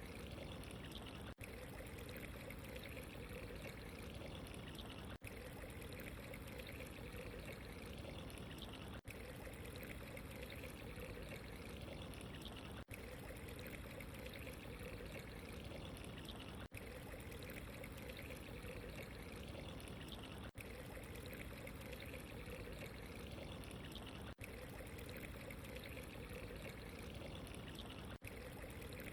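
Steady running water, a soft continuous trickle and pour, broken by a brief dropout about every four seconds.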